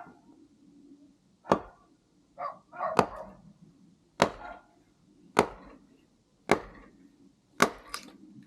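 Axe chopping firewood: six sharp strikes on wood, about one a second.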